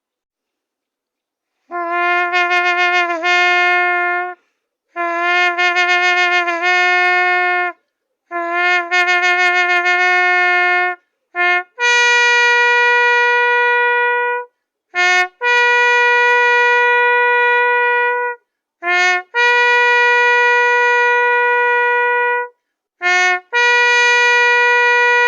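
Shofar blasts: three wavering calls of about two and a half seconds each at a lower pitch, then four long steady calls at a higher pitch, each opened by a short clipped note.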